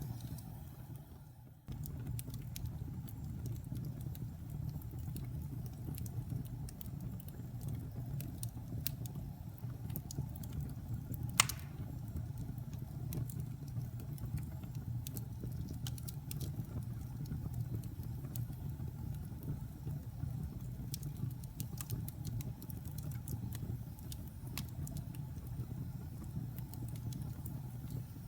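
Wood fire burning in a fireplace: a steady low rumble with scattered small crackles and one louder sharp pop about eleven seconds in. Near the start the sound fades out briefly and then comes back abruptly.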